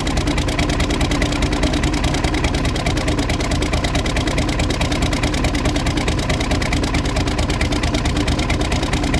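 Farmall 1066's turbocharged six-cylinder diesel running steadily with an even, rapid firing rhythm, the engine still cold after a start at 16 °F.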